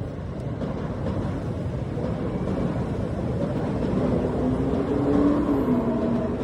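Train running, a steady low noise that grows somewhat louder, with a faint wavering tone from about four seconds in.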